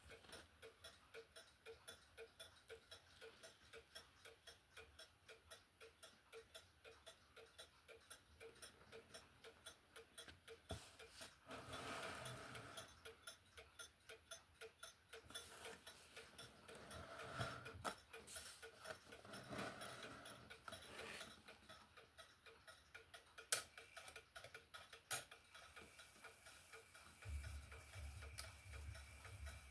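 A repaired HAC-Junghans wall clock movement running, its escapement ticking quietly and evenly. A few louder rustles and two sharp clicks come in the second half, and a low hum near the end.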